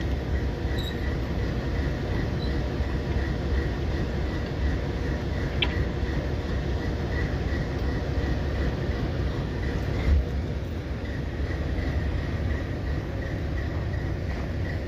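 Diesel-electric freight locomotive idling: a steady low rumble.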